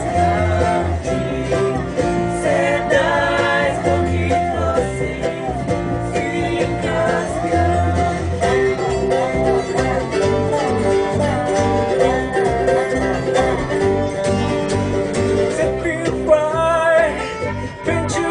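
A bluegrass band playing live on acoustic string instruments, with banjo and guitar picking, and a voice singing along.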